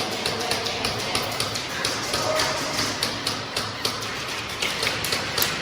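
Airsoft guns firing in an indoor arena: many sharp, irregular shots, several a second.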